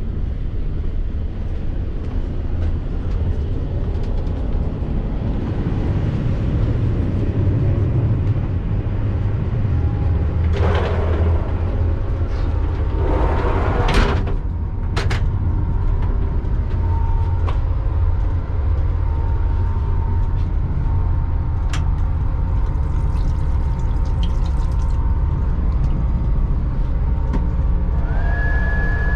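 ÖBB Railjet train running: a steady low rumble, with two short rushing surges about ten and thirteen seconds in, a few sharp clicks, and a steady high tone that comes in near the end.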